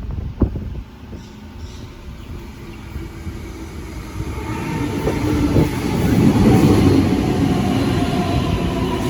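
An electric passenger train rolls in and passes close by. Its rumble grows louder over several seconds and peaks about two-thirds of the way through, with a steady high whine over it. A single sharp knock comes just after the start.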